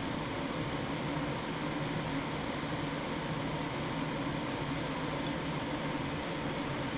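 A steady, unchanging hum and hiss of a running fan or similar small machine, with a faint tick about five seconds in.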